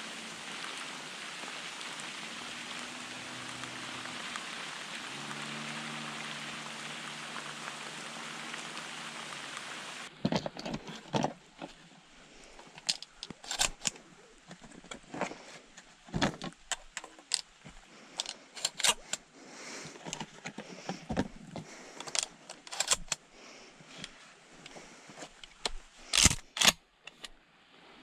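Steady rain hiss, which cuts off about ten seconds in. Irregular crunching footsteps and rustles through the forest floor follow, with a few louder knocks near the end.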